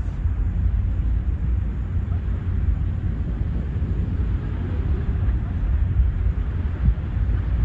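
Outdoor ambience dominated by a steady, fluttering low rumble of wind buffeting the microphone.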